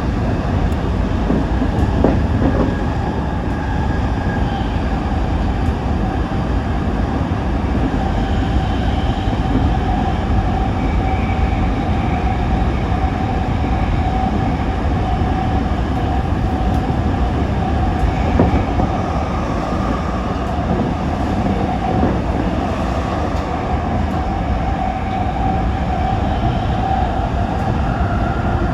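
Toyo Rapid Railway 2000 series electric train running between stations: a steady rumble of wheels on rail with a steady tone held throughout.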